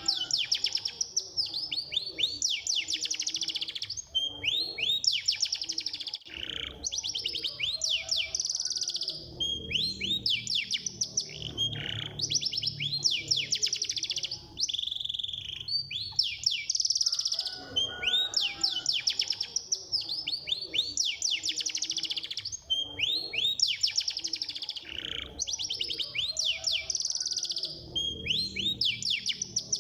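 Domestic canary singing a fast, continuous song of rapid trills and sweeping rolls, phrase after phrase with hardly a pause, in the tight 'speed' style used for canary tutoring recordings. A low hum sits underneath at times.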